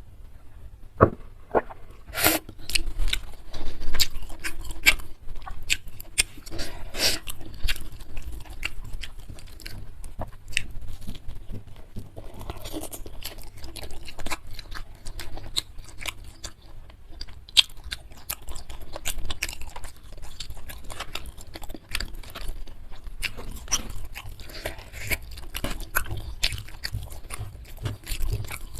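Close-miked chewing: a person biting into and crunching food in irregular, rapid bursts of crisp crackles.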